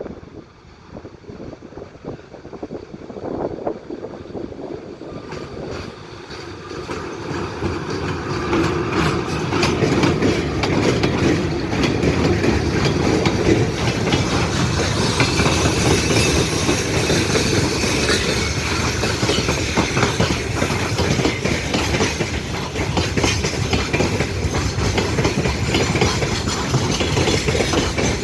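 A train approaches and passes close by at speed. Its wheels clatter steadily over the rail joints, rising from faint to loud within the first ten seconds.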